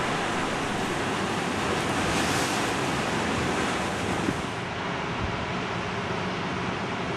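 Heavy storm surf and strong wind, a dense rush of noise with wind buffeting the microphone; it swells about two seconds in and eases a little after four seconds.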